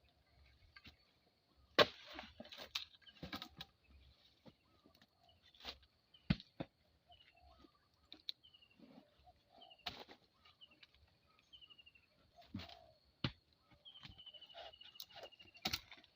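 Small birds calling in short falling chirps, with one longer falling trill near the end. Scattered sharp knocks and clicks come every few seconds, the loudest about two seconds in.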